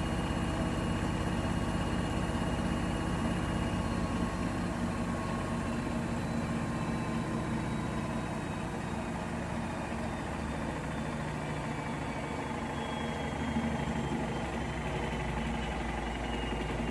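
Bosch Serie 4 WAK20260TR washing machine running mid-cycle: a steady motor hum with whining tones, some of which drift slowly lower in pitch.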